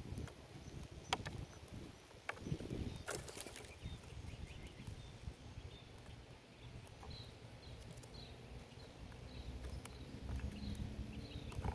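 Small birds at a backyard feeder: a few sharp taps and soft rustling, then a run of faint short high chirps about once or twice a second in the second half.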